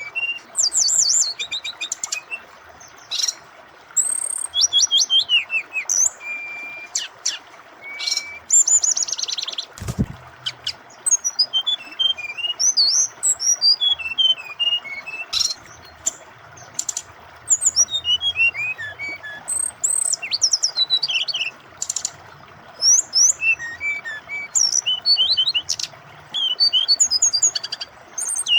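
A brown-chested jungle flycatcher singing a fast, varied song of high chirps, trills and short whistles in repeated bursts, over the steady rush of flowing water. A single dull thump about ten seconds in.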